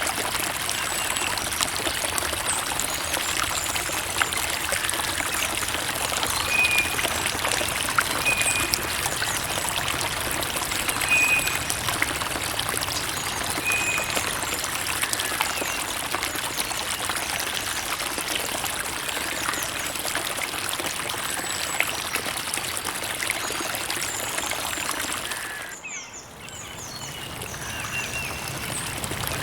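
Creek water trickling and babbling steadily over stones, with a few short high bird chirps in the first half. Near the end the water sound drops away for about a second, then comes back.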